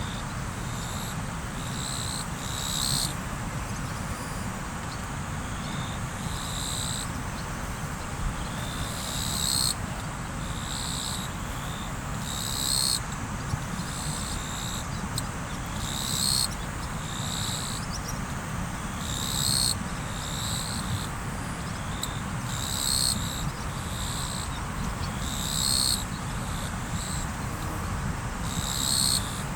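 River water flowing steadily, with a high chirping call repeated in short pulsed bursts about every three seconds.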